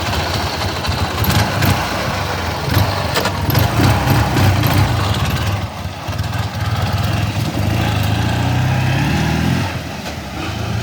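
1980 Ural M-67-36 motorcycle's flat-twin engine running and being revved, with a long climb in revs near the end that then drops back.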